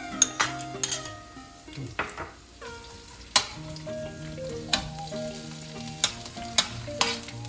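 Chopped onion and garlic sizzling in hot oil in a wok, stirred with a metal slotted spatula that scrapes and clinks against the pan several times.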